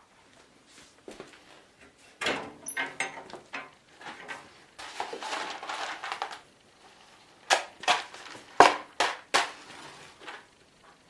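Handling sounds at a home fireplace as a fire is laid: irregular clatter and knocks of wood and metal with a stretch of rustling. The sharpest, loudest knocks come in a quick run in the second half.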